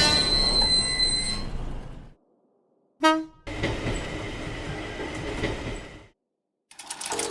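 Train sound effects: a passing train with a ringing, many-toned sound fading away over the first two seconds, then a short horn-like toot about three seconds in. A few seconds of steady train running noise follow and cut off suddenly, and music begins near the end.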